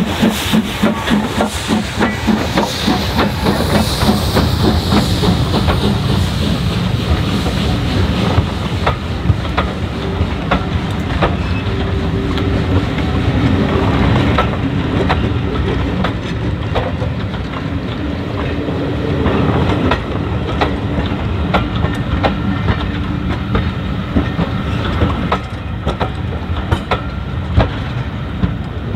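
Steam train running on the line, hauled by ex-Somerset & Dorset Joint Railway 7F 2-8-0 No. 53809: a rhythmic low beating in the first few seconds gives way to a steady rumble, with repeated clicks of wheels over the rails and some hiss.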